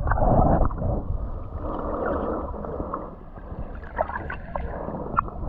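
Water sloshing and splashing close to the microphone, a muffled, uneven wash with small splashes scattered through it.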